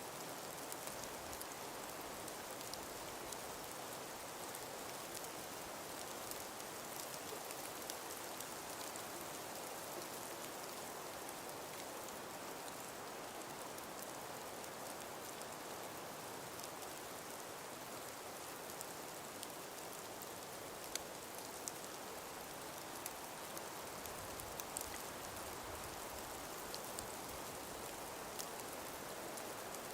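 Steady hiss of a light breeze through frosted, ice-covered forest trees, sprinkled with faint scattered ticks.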